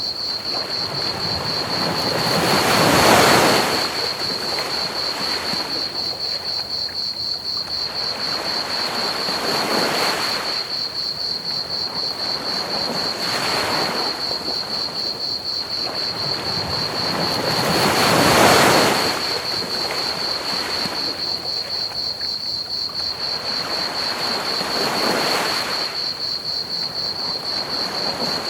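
Ocean waves washing onto a beach, swelling and fading every few seconds, with two larger waves breaking, one near the start and one past the middle, over a steady hiss. A steady high chirping of crickets runs throughout.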